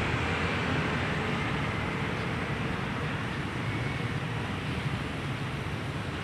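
Steady street ambience: a constant hum of traffic noise.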